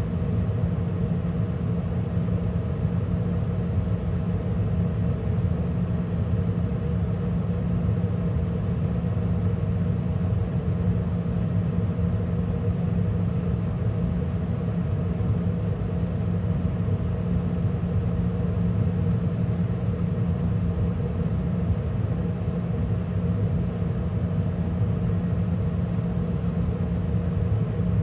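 A 2013 Carrier gas furnace running steadily in mid heating cycle, with the burners lit and the draft inducer and circulating blower running. It makes a constant hum and rumble with a low drone and a higher steady tone, and does not change.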